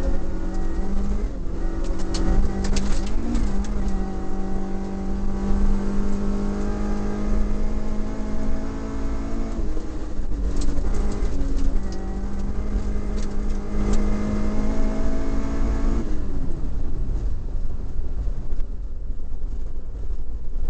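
Toyota Corolla Levin's 4A-GE four-cylinder twin-cam engine under load, heard from inside the cabin, holding fairly steady revs with two brief dips. Gravel stones clatter against the car in patches. About sixteen seconds in, the engine note falls away as the throttle is lifted.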